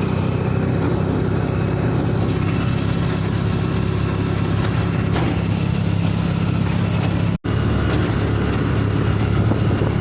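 Vehicle engine running steadily, cutting out for an instant about seven seconds in.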